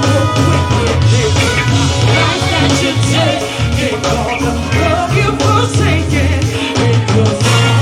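Live go-go band playing, with a singer's voice over a pounding bass and drum groove.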